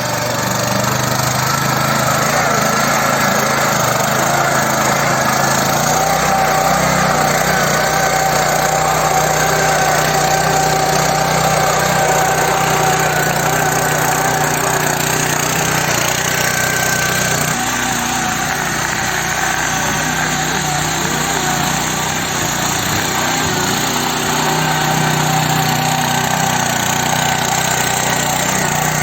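S Raja mini power tiller's 7.75 HP engine running steadily under load while tilling soil, its note shifting slightly a little past halfway.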